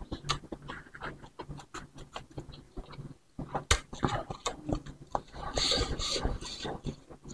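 Close-miked chewing of a mouthful of bakso meatballs and rice vermicelli: wet lip smacks and many small mouth clicks.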